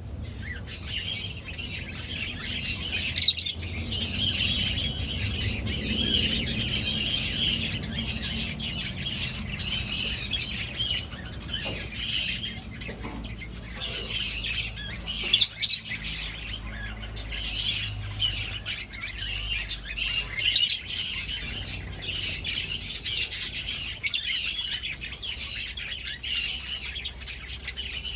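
Many aviary finches chirping and calling at once in continuous, overlapping chatter over a low steady hum.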